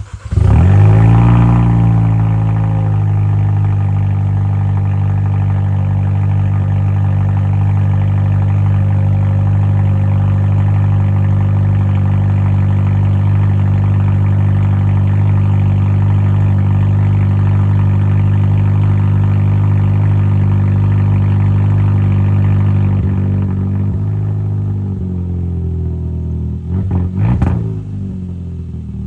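Muffler-deleted exhaust of a 2024 Kia Forte GT's turbocharged four-cylinder starting up. It catches with a loud rev flare that settles within a couple of seconds into a steady idle. The idle drops a little later on, and a few short louder bursts come near the end.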